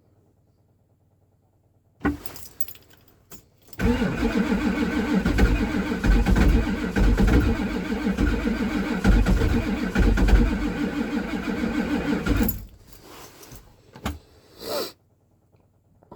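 Ford 7.3 IDI diesel being cranked over cold: a short burst about two seconds in, then the starter turns the engine for about nine seconds with uneven pulsing, and stops abruptly. The batteries are somewhat weak.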